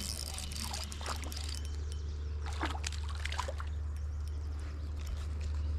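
Water splashing and trickling as a freshly caught white bass is landed: a cluster of short splashes and clicks in the first few seconds, over a steady low rumble.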